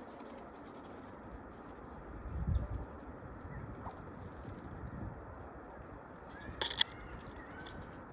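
Bird wingbeats, a short low flutter about two and a half seconds in, with a few faint high chirps and a couple of sharp clicks near the end.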